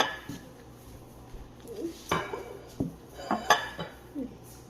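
Cutlery clinking against plates and dishes while eating, a few sharp separate clinks near the start, about two seconds in and about three and a half seconds in.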